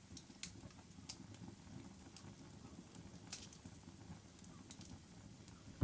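Faint crackling of a wood fire: scattered sharp pops and clicks over a low rumble.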